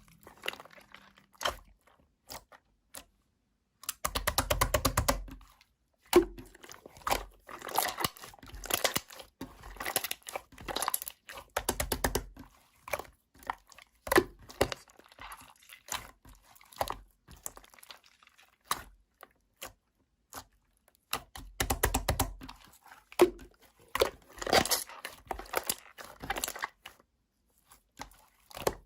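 Slime being squished and kneaded by hand: a run of irregular crackling clicks and pops, with heavier squelching stretches about four, twelve and twenty-two seconds in.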